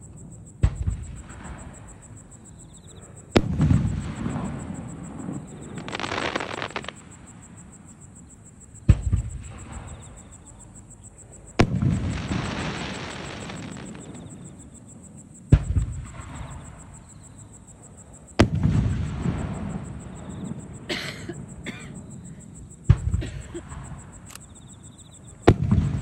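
Aerial firework shells bursting one after another: about eight sharp booms a few seconds apart, each followed by a long rolling rumble of echo. A hissing crackle comes after some of the bursts.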